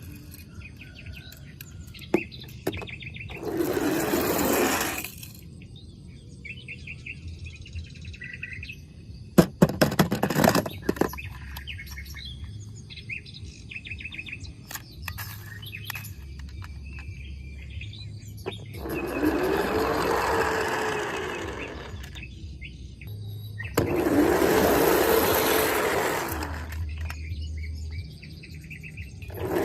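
Small birds chirping in short repeated trains. Several louder rushing sounds, each two to four seconds long and rising then falling in pitch, come and go, and a quick cluster of sharp clicks comes about a third of the way through.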